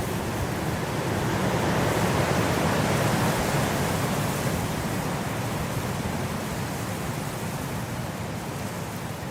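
Blizzard wind blowing as a steady rush of noise that swells about two seconds in and eases off again.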